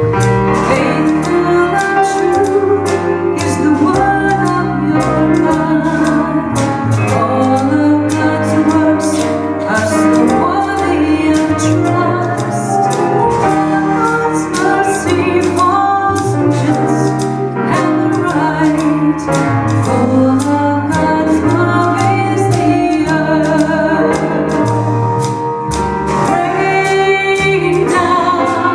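A woman singing a contemporary hymn with a small live band, to a steady beat of drum and cymbal hits.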